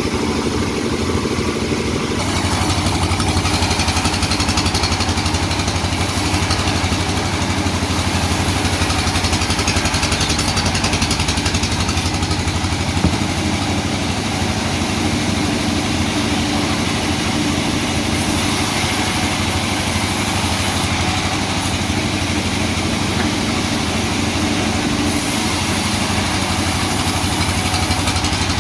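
Sawmill machinery running steadily: a loud engine-type drone with a broad high hiss over it, the mix changing abruptly several times.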